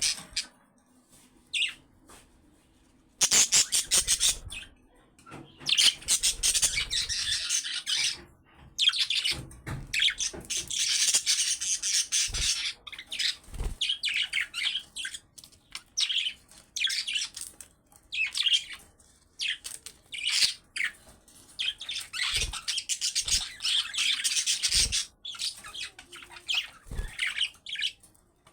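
Budgerigars chattering and warbling in irregular bursts of fast, high-pitched twittering mixed with squawks, with short pauses between. A few brief low knocks come through in the middle and near the end.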